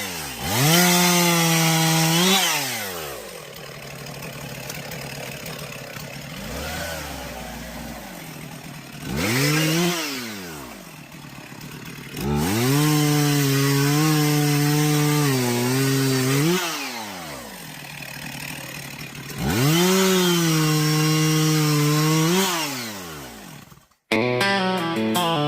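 Gas chainsaw revving up to full throttle and cutting wood, then dropping back to idle between cuts, four times over. Near the end it cuts off abruptly and slide-guitar music begins.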